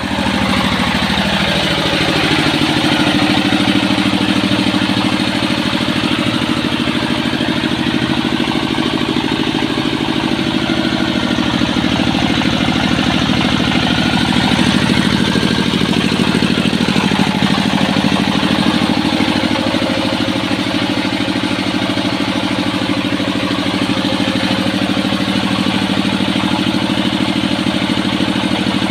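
An engine running steadily at idle, an even, unchanging drone throughout.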